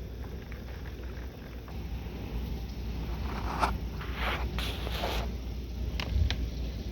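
Hurricane wind buffeting the microphone in a steady low rumble, with a few louder hissing surges of wind and rain in the middle and a couple of sharp clicks near the end.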